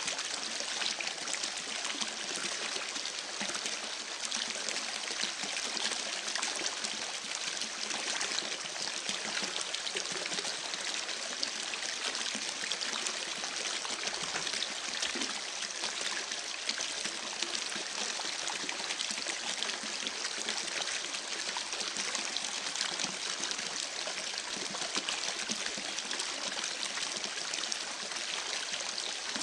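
A creek babbling and running steadily, with a campfire's small crackles mixed in.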